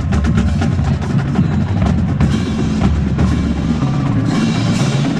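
Marching band drumline playing, snare and bass drums beating a steady, busy rhythm.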